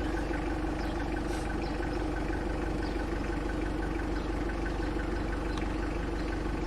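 Safari vehicle's engine idling steadily while stopped.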